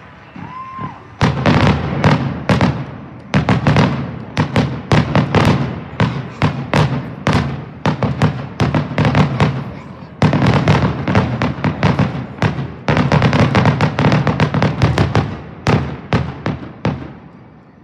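Fireworks display going off in a rapid, dense barrage of bangs, several a second, with a brief lull about ten seconds in before the bangs build again and die away near the end.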